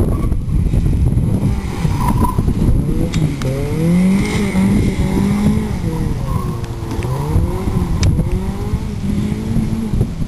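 Honda Civic Si's four-cylinder engine revving hard, its pitch climbing and dropping again and again as it is driven flat out, over steady rough tyre and road noise.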